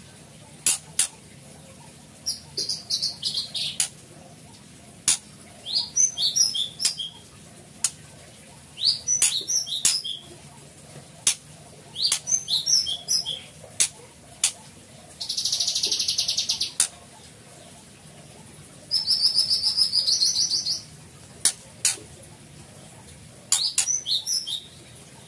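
Songbirds singing in short, repeated high phrases, mixed with sharp single clicking notes and two steady trills of about two seconds each, near the middle and about three-quarters through.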